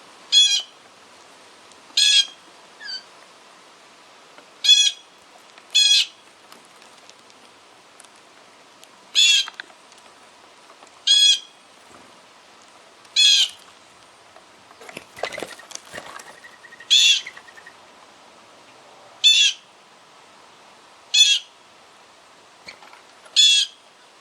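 A bird repeating one short, ringing call about every two seconds, about eleven times. A brief rustling flurry comes about two-thirds of the way through.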